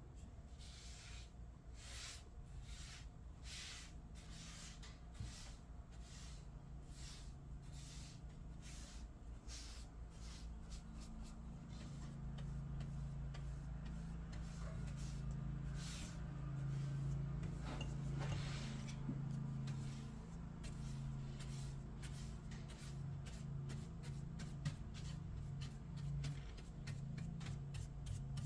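Old paint and finish being worked off by hand with sandpaper or a scraper, in repeated strokes about two a second. A low hum rises in the background about halfway through.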